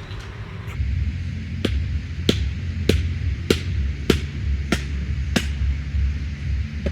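Firewood being split: seven sharp, evenly spaced knocks, a little under two a second, over a steady low rumble.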